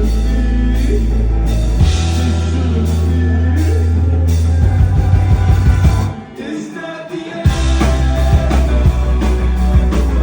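Live band playing a rock song, with singing. About six seconds in the bass drops out and the music goes quieter for a second or so, then the full band comes back in.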